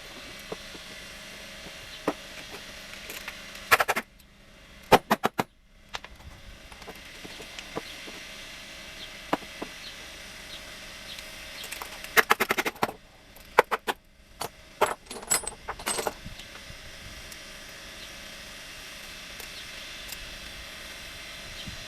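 Metal tools and small engine parts clinking and tapping during engine disassembly, as bolts and nuts are removed. The sharp clinks come in a few short clusters: one about four seconds in, another at five seconds, and a longer run from about twelve to sixteen seconds. Between and around these clusters the quieter stretches hold only a steady faint hiss.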